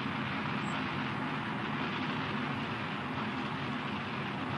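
Zenit-3SL rocket's first-stage RD-171 engine in climbing flight: a steady, even rushing noise with no breaks.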